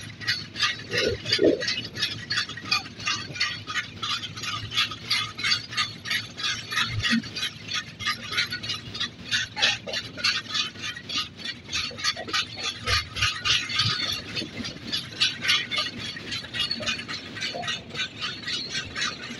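Passenger train running at speed, heard from beside the coach: a rapid, even metallic clatter and rattle.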